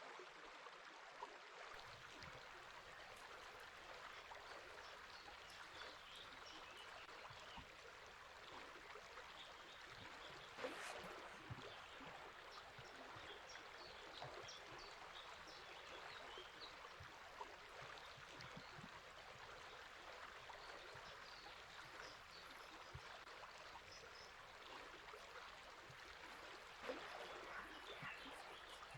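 Faint, steady rush of a river flowing, with scattered faint, short bird chirps over it. Two brief louder ticks stand out, about a third of the way in and near the end.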